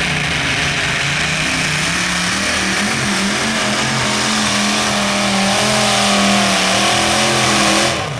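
Modified pulling tractor's engine running at full throttle under load during a pull. Its pitch climbs about two seconds in, holds high, then drops away suddenly near the end as the throttle comes off.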